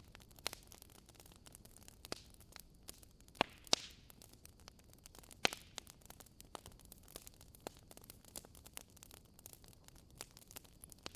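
Wood logs burning in a fireplace, crackling with irregular sharp pops over a soft hiss, the loudest pops coming between about three and five and a half seconds in.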